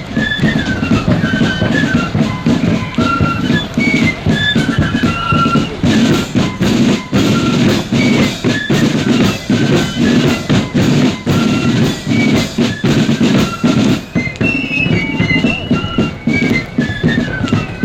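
Marching flute band playing a tune: high flute melody over a steady drum beat.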